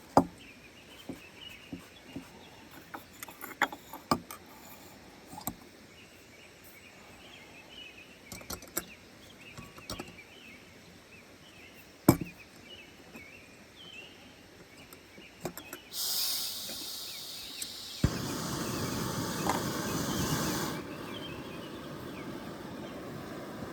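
Scattered small knocks and clicks of cooking gear being handled. Then a portable gas camp stove starts: a sudden hiss of gas, a sharp click about two seconds later, and a fuller burner noise that settles to a steady lower noise a few seconds on, as water is heated to the boil.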